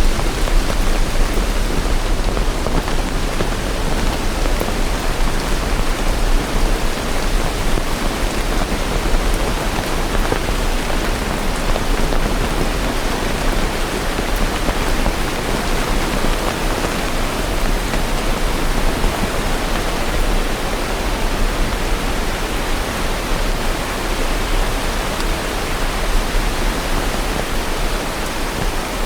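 Steady rain falling: an even, unbroken hiss with a constant low rumble underneath.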